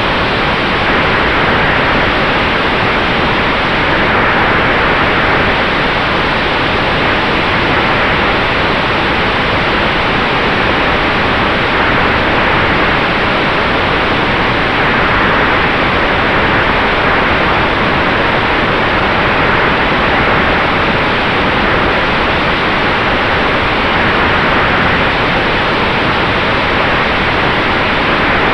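Electric-powered Sonex Xenos airplane: a steady, loud rush of air and propeller noise with a faint constant whine, unchanging throughout.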